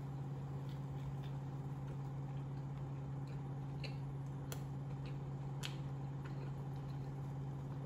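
Faint, scattered clicks of a person chewing a mouthful of burger with closed mouth, over a steady low hum.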